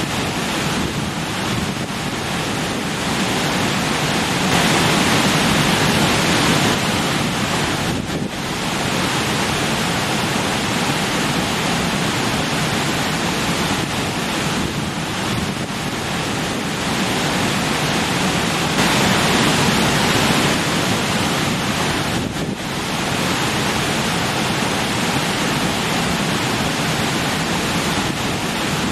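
Rushing stream splashing over rocks, a steady loud rush of water that swells and eases slightly a couple of times.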